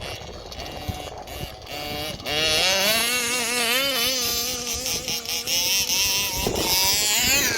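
Small race-ported 31.8cc two-stroke engine of an RC buggy (ESP-ported Zenoah G320RC) running at high revs. It is quieter for the first couple of seconds, then holds a loud, high buzz whose pitch wavers with the throttle, rising again near the end.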